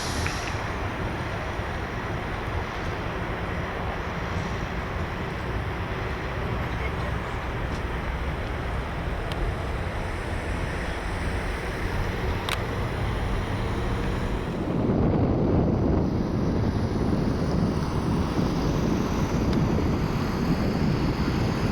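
Wind buffeting the microphone over a steady rumble, growing louder and deeper about fifteen seconds in.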